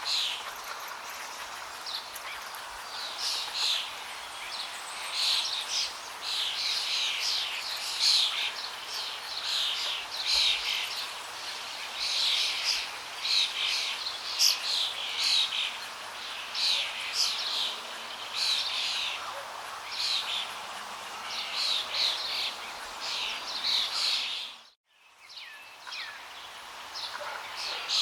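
Small birds chirping and calling over and over above the steady rush of flowing water. About three-quarters of the way through, all sound drops out for a moment, then the water returns with fewer bird calls.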